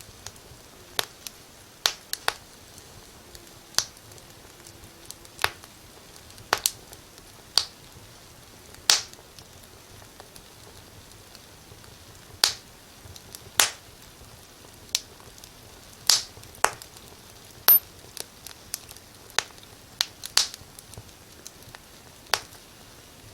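Wood fire crackling in a fireplace: irregular sharp pops and snaps, roughly one a second, over a faint steady hiss.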